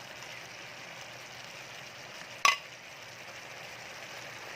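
Chicken in a creamy milk sauce simmering and sizzling in the pan, a steady hiss, with one sharp metallic clink about two and a half seconds in, likely a utensil against the pan.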